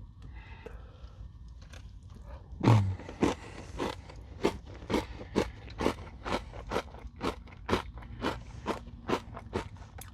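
Close-up eating sounds: one loud crunching bite into a Nature Valley crunchy granola bar dipped in yogurt, about two and a half seconds in. Steady crunchy chewing follows, at about two or three chews a second.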